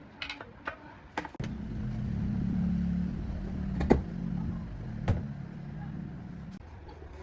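A small motor starts abruptly and runs steadily with a low hum for about five seconds, then winds down near the end. Light clicks come just before it starts, and two sharp clicks come while it runs.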